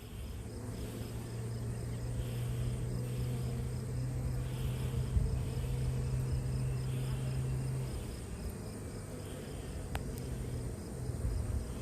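Steady low hum of a honeybee colony crowding the comb, easing off a little about two-thirds of the way through, with one faint click near the end.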